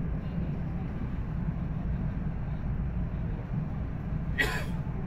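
Steady low rumble inside a passenger train carriage, with one brief hiss about four seconds in.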